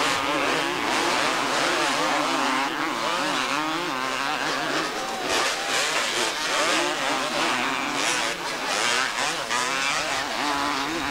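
Several 250cc two-stroke motocross bikes racing together, their engines revving up and down and overlapping in a steady, loud din.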